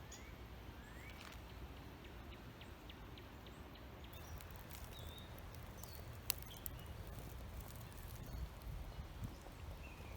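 Quiet outdoor ambience: a few faint, short bird chirps over a low rumble, with scattered light ticks and one sharp click a little past the middle.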